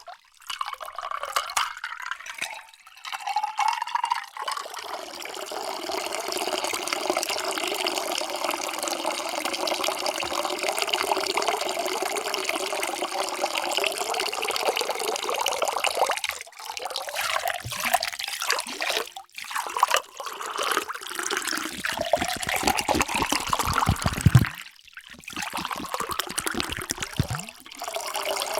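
Water pouring into a container in several separate pours broken by short gaps. The longest pour runs for about ten seconds in the first half, and in the later pours the pitch climbs as the vessel fills.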